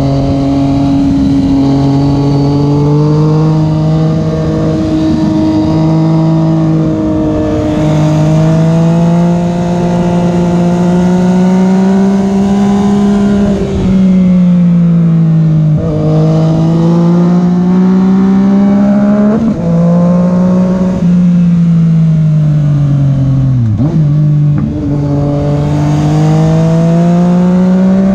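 Yamaha FZ-09's 847 cc inline three-cylinder engine pulling on the open road under steady throttle. Its pitch climbs slowly and dips sharply three times, around the middle and about two-thirds through, as the revs drop and pick back up.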